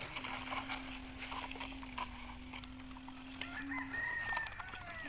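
A rooster crowing once, a pitched call of about a second and a half starting about three and a half seconds in, over a steady low hum.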